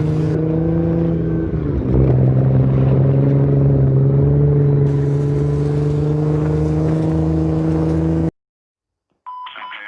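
A vehicle engine running steadily with a deep hum. About two seconds in, its pitch drops slightly and it gets louder; it runs on evenly and then cuts off abruptly near the end.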